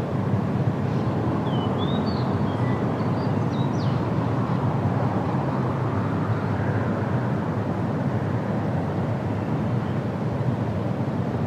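Steady wind, mostly low in pitch, with a few short, high bird chirps in the first few seconds.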